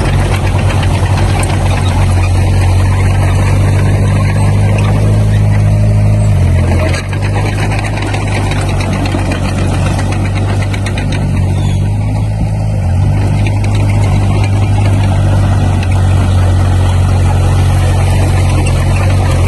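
Diesel engine of heavy earthmoving equipment running steadily. Its engine note shifts about halfway through and again later, as it changes load or speed.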